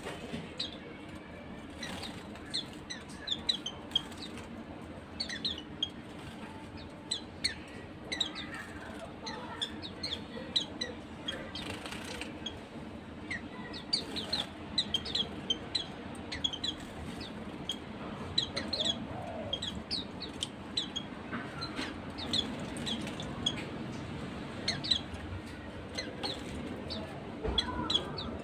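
White-eyes (burung pleci) chirping: many short, high calls, scattered and repeated, over a steady low hum.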